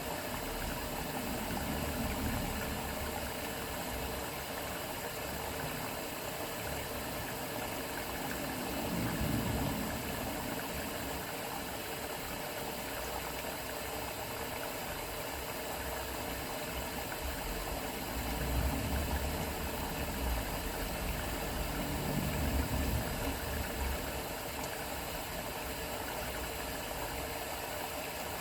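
AEG Öko-Lavamat 693 washing machine in its wash cycle: the drum turns with the laundry and water sloshing, over a steady motor hum. Low rumbling swells rise and fall several times, strongest near the middle and after about 18 seconds.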